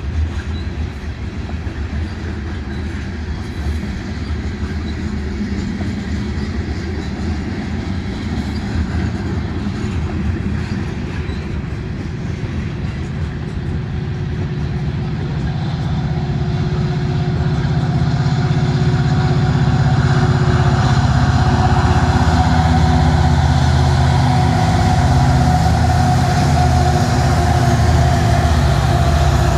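Freight train of covered hopper cars rolling past on the rails. Through the second half, a pair of mid-train diesel locomotives draws near, and their engines grow steadily louder until they are the loudest thing near the end.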